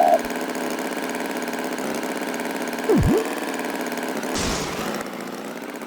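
An engine running steadily, like a tractor idling, with a short falling-then-rising glide about three seconds in and a brief hiss about a second later.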